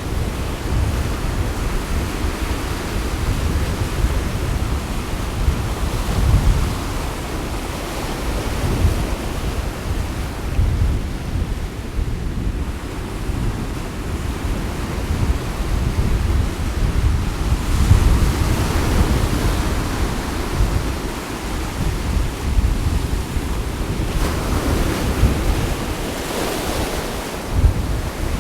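Sea waves washing on the shore, with wind gusting across the microphone as a heavy low rumble. Now and then a wave surges brighter and hissier, about two-thirds of the way through and again near the end.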